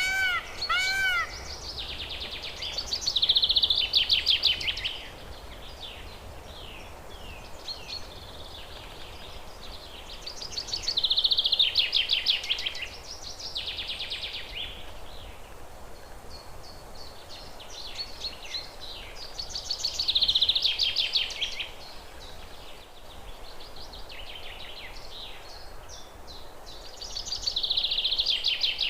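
A songbird singing: a phrase of rapid trills repeats about every eight seconds, with quieter chirps between the phrases. A short run of arching, whistle-like notes ends about a second in.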